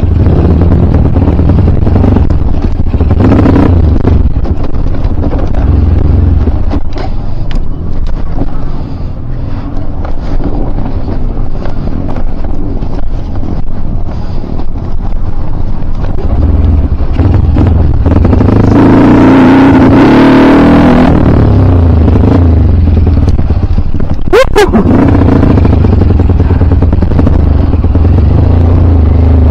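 KLX dirt bike's single-cylinder Mega Pro engine running under changing throttle while riding a trail. It eases off in the middle and pulls hardest about two-thirds of the way through.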